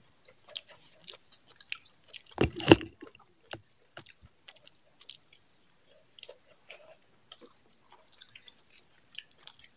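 Two people eating rice and pumpkin-and-chicken curry with their hands: wet chewing and lip smacks in quick, irregular clicks. One louder, short noisy burst comes about two and a half seconds in.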